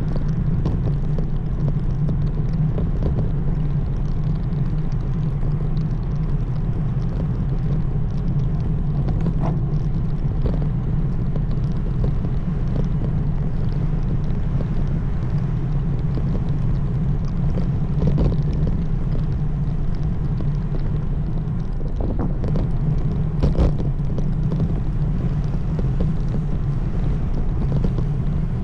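Steady low rumble of wind and tyre noise on the camera while a road bike is ridden, with occasional short knocks from bumps, one louder about 23 seconds in.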